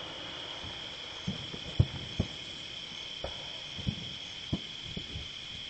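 Steady high-pitched chirring of crickets, with distant fireworks going off as about seven short, irregular low thuds.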